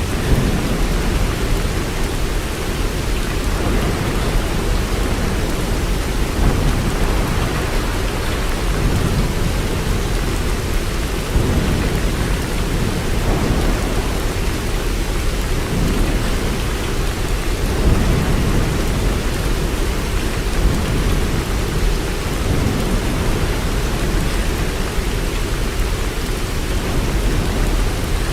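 Steady, heavy rain: an even hiss with a deep rumble underneath that swells and fades every few seconds.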